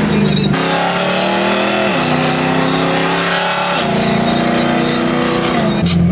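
Straight-piped BMW exhaust under hard acceleration: engine pitch climbs, drops at an upshift about two seconds in and again near four seconds, then climbs once more.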